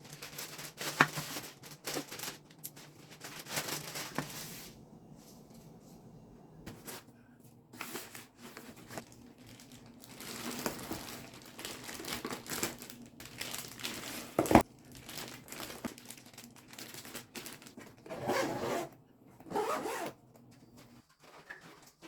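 Packaging crinkling and tearing in irregular bursts, with one sharp knock about two-thirds of the way through, the loudest moment, over a low steady hum.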